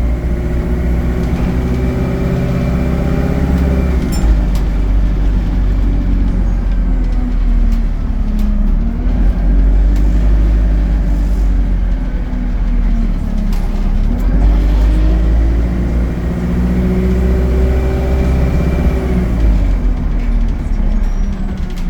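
ADL Enviro 200 bus's diesel engine with Allison automatic gearbox, pulling away and building revs, then easing off; this happens twice, with a lower stretch in between.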